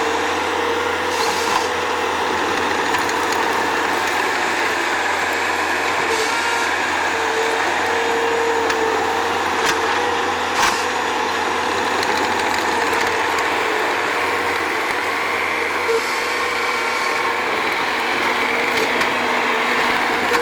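Bobcat skid-steer loader's engine running steadily, with a steady tone over it and a single knock about ten seconds in.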